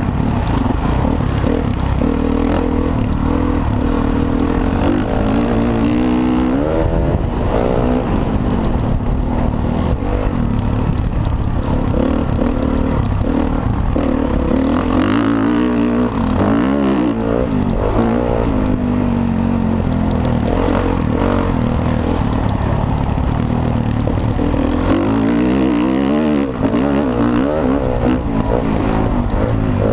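Motocross bike engine running hard, revving up and down over and over as the throttle opens and closes and the gears change, with the pitch climbing and dropping several times.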